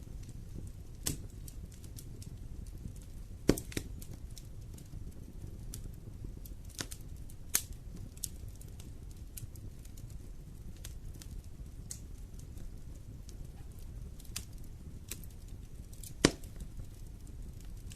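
Wood fire in a fireplace crackling: scattered sharp pops every second or few, the loudest about three and a half seconds in and near the end, over a low steady rumble.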